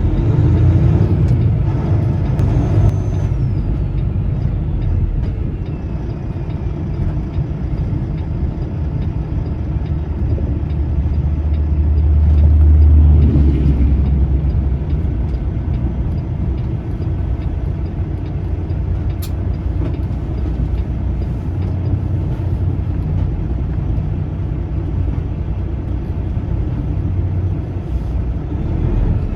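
Peterbilt semi truck's diesel engine running with a steady low rumble, heard from the cab, swelling louder about twelve to thirteen seconds in before settling back.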